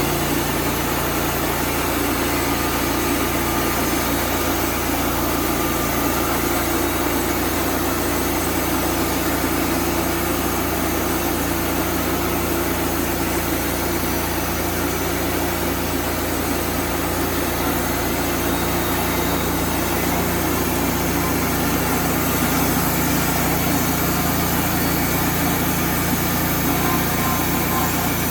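A motor engine running steadily at a constant speed, with a continuous low hum and broad mechanical noise.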